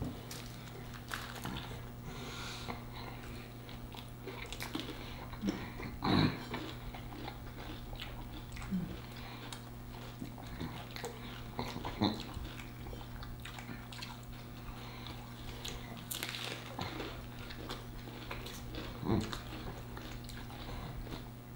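Close-miked eating: biting into and chewing a fried chicken sandwich, with scattered crunches and wet mouth smacks over a steady low hum.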